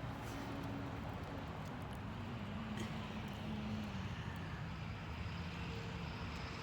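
Steady street noise with a vehicle engine running, its hum drifting slowly lower in pitch.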